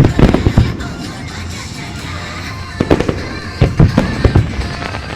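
Fireworks shells bursting overhead in quick clusters of bangs, one at the start and more about three and four seconds in, over the show's accompanying music.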